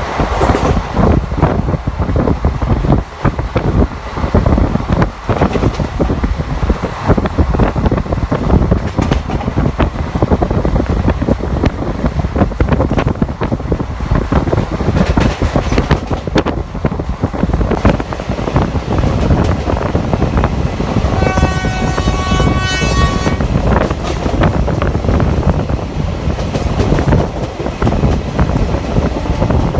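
ICF passenger coach running at speed: a steady rumble and rush of wind, with the wheels clicking over rail joints. About two-thirds of the way in, a train horn sounds one steady blast for about two seconds.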